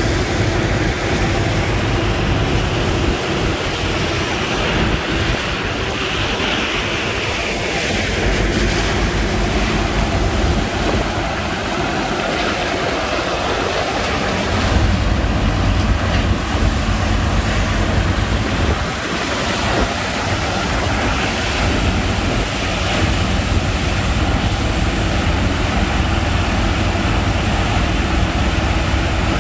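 Sand-pumping machine running steadily, its engine hum under a loud rush of water and sand slurry, with wind on the microphone. The low engine hum grows stronger about halfway through.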